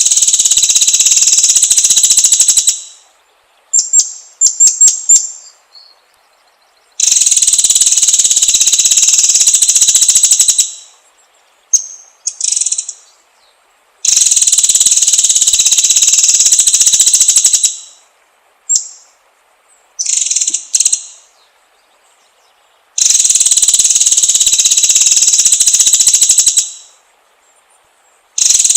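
White-rumped shama (murai batu) song: long, very rapid high trills of about four seconds each, coming back roughly every seven seconds, with short chirps and quick note runs in the pauses between them.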